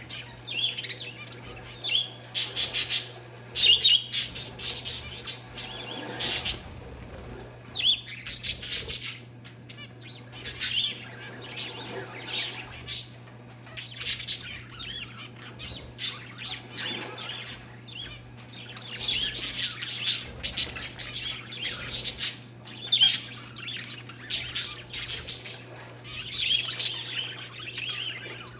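Caged parakeets and zebra finches chirping and squawking in a busy, overlapping chatter of short, high calls, over a steady low hum.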